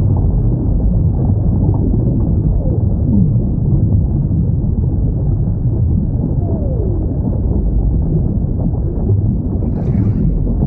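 Whale calls: two low, falling moans, about 3 seconds in and again near the middle, over a steady deep rumble, with a brief higher-pitched sound near the end.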